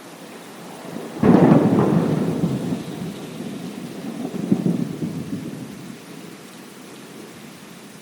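Steady rain with a sudden clap of thunder about a second in, rolling on as a rumble that swells again midway and dies away.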